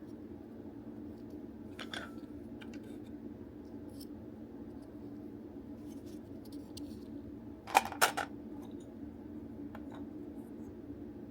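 Small plastic clicks and knocks from the DX Buggle Driver Zwei toy belt's parts being handled during disassembly, with a quick cluster of two or three sharp clicks about eight seconds in.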